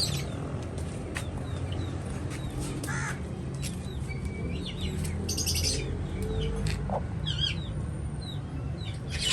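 Birds calling outdoors: many short chirps, several falling in pitch, with a few sharp clicks, over a steady low rumble.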